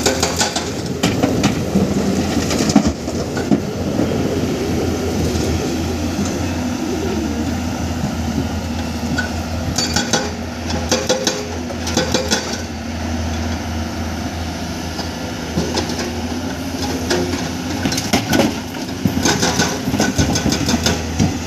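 Heavy diesel construction machinery running steadily, with repeated bursts of metallic clanking and knocks.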